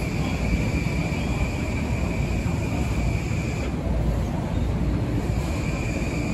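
Long Island Rail Road electric multiple-unit train rolling past, a steady rumble of wheels on rail. A thin high whine rides on top, drops out about halfway through and comes back near the end.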